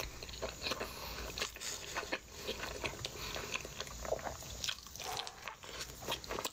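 Close-miked mukbang eating sounds: a person chewing a mouthful of sauce-covered Taco Bell burrito, with a dense, irregular run of short clicking mouth sounds.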